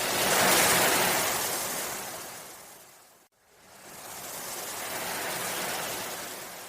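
Ocean waves washing in, two surges of surf: the first loudest just after the start and fading into a brief sudden gap about three seconds in, the second softer, swelling and then fading near the end.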